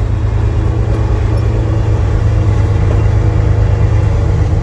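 Diesel engine of a loaded semi grain truck running steadily at low speed, a deep even sound.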